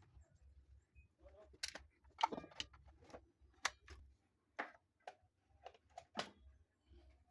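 Irregular sharp clicks and knocks, about eight of them spread over several seconds, over a faint low hum, like tools and metal parts being handled.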